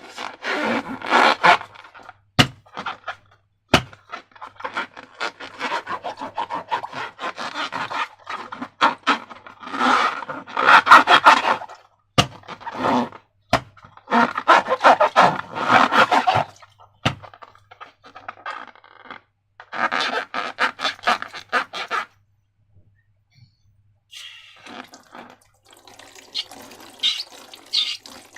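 Slime being squished and worked by hand: wet, sticky crackling in irregular bursts, with a few sharp clicks and a short pause near the end.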